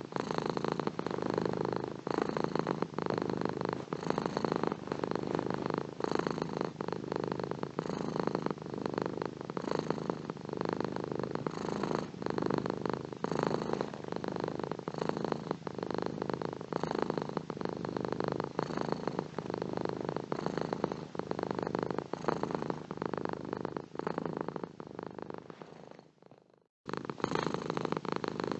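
Domestic cat purring steadily in a rapid, even pulse. About 26 seconds in, the purring fades out, breaks off for under a second, then starts again abruptly.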